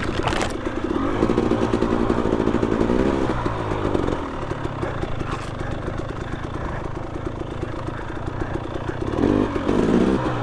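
Two-stroke dirt bike engine running at low trail speed, the revs rising and falling as the throttle is blipped, with a short burst of higher revs about three seconds in and again near the end. A brief sharp knock sounds just after the start.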